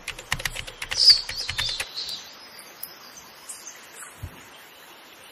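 A bird's wings flapping in a quick train of beats, about seven a second, for the first two seconds, with small birds chirping over it. A single low thump comes about four seconds in.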